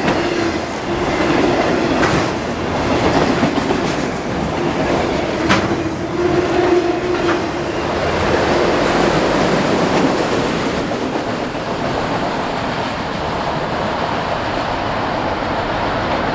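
Freight train's cars rolling steadily past, wheels clacking over the rail joints, with a faint held wheel tone that comes and goes.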